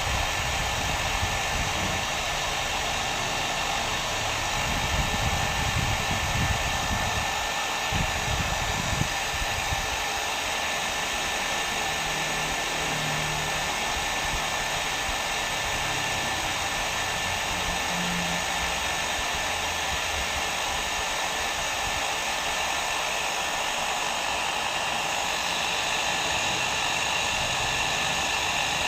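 Hair dryer blowing steadily: an even rushing of air with a faint steady whine, and some low rumbling through the first third.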